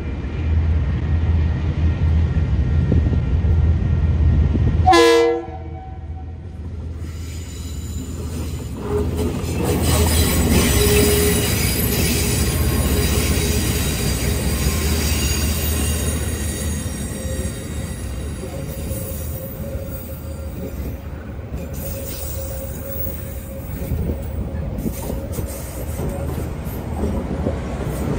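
Two diesel locomotives hauling a passenger train, their engines rumbling heavily on the approach. A brief horn note comes about five seconds in. Then the locomotives and carriages pass close by with steady wheel and rail noise and thin, high wheel squeal.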